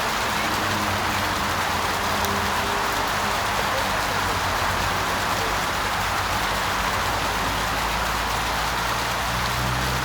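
Steady splashing and hissing of water tumbling down a garden waterfall into a shallow pond.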